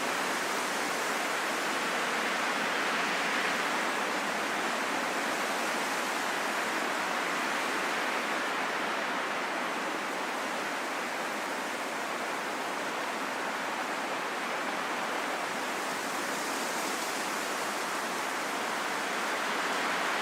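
Calm, steady wind: an even rushing hiss that swells and eases slowly, with no sudden gusts or whistling.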